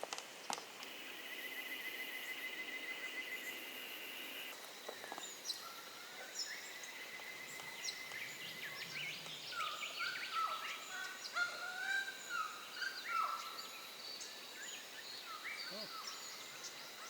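Several birds calling in the bush, a mix of short chirps, whistles and chattering calls. For the first few seconds a steady pulsed trill carries on underneath.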